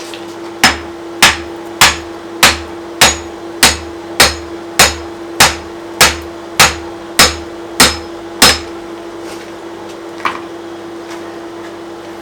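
Blacksmith's hammer striking a hot mild-steel axe blank on the anvil, fourteen evenly paced ringing blows about one every 0.6 seconds, correcting a bend in the blank. A single faint knock follows a little later, over a steady hum.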